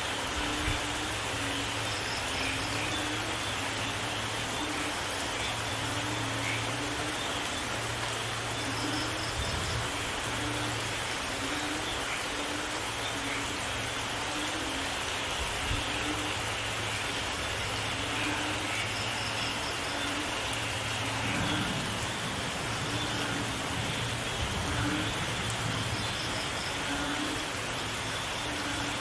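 Steady rain falling, an even hiss, with a faint pulsing low hum underneath.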